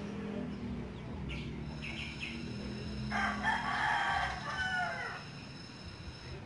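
A single long bird call about three seconds in, lasting about a second and a half and falling at its end, over a low steady hum.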